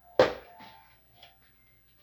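A sharp knock with a brief ringing tail about a fifth of a second in, followed by a couple of faint knocks: the blender jar being handled after a run.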